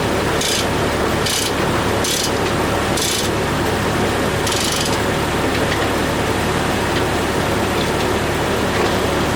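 Engine-driven Foley Belsaw M-14 circle sawmill running steadily, with six short rasping hisses in the first half, about one a second.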